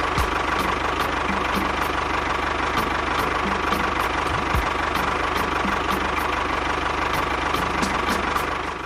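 Small engine running steadily at idle, with a regular ticking knock a few times a second.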